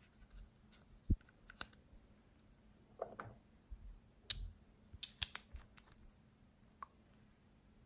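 Slime being handled and pressed, giving sparse, irregular small clicks and sticky pops, with a brief crackle now and then.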